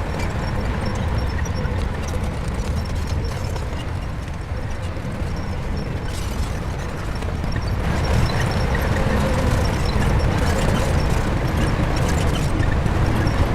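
Shantui crawler bulldozer's diesel engine running steadily, growing louder about eight seconds in.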